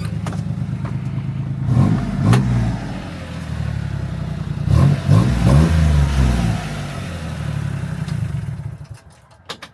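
Honda Acty mini truck's small three-cylinder engine idling with a little rumble through its new exhaust tip. It is revved up and back down twice, then cuts off near the end.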